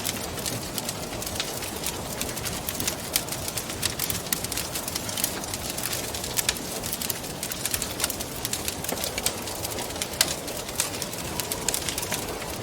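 Wood fire crackling, with frequent sharp irregular pops and snaps, over a steady rushing wind.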